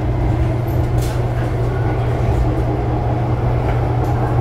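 Hong Kong Disneyland Resort Line electric train running along the track, heard from inside the carriage: a steady low hum with a rumble of wheels on rail.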